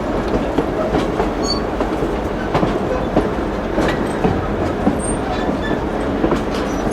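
Train running along the track with a steady rumble and irregular clicks and knocks from the wheels over the rails.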